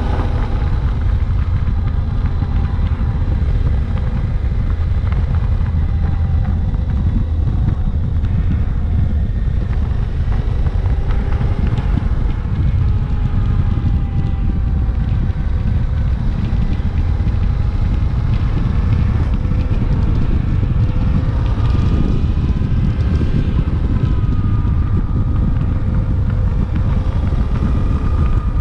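Suzuki V-Strom 800DE's 776 cc parallel-twin engine running while riding, with steady wind rush over the microphone; the engine note drifts up and down a little with the throttle.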